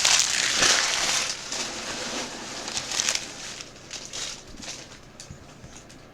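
Trading card pack wrapper crinkling as it is torn open and handled. About a second in it fades to soft flicks and clicks of cards being slid through the hand.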